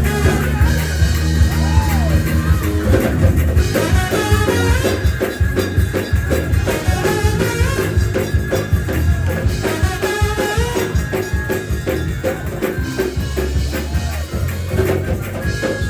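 Live gospel church band playing praise-break music: drum kit, bass and keys in a fast, driving rhythm.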